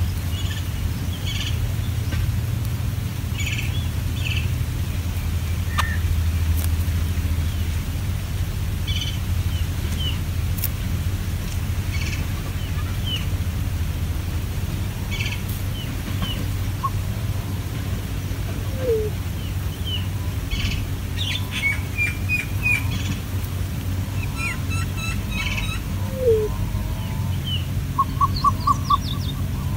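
Short bird chirps and calls scattered through, over a steady low rumble, with a quick run of about five loud notes near the end.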